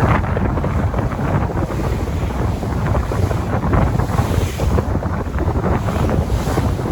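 Sea waves in a continuous rush with a deep rumble, with wind buffeting the microphone.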